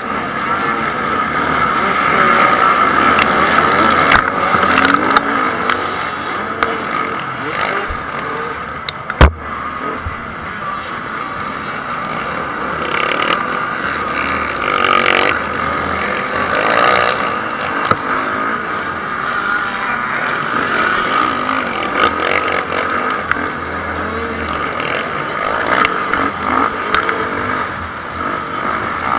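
Motocross bikes racing, their engines running and revving continuously as they go round the track. A single sharp knock stands out about nine seconds in.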